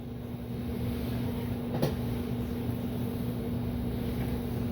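A steady low mechanical hum with a constant tone in it, and a single sharp click a little under two seconds in.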